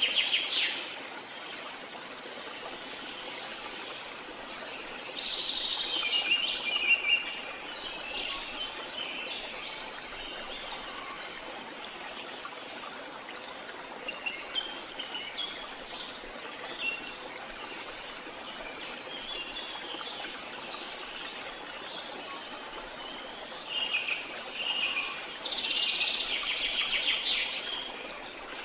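Small songbirds singing and chirping in bouts of quick twittering phrases, with quieter stretches between them, over a steady faint background hiss.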